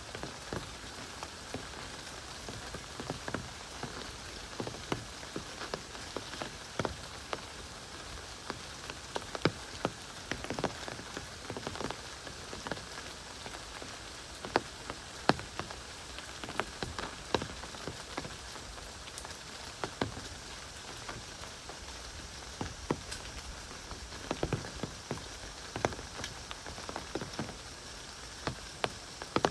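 Heavy rain falling steadily, with a constant hiss and many irregular sharp drop impacts close by.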